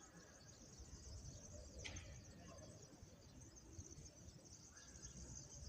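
Near silence outdoors: faint steady high-pitched insect chirring, with one brief high chirp about two seconds in over a low rumble.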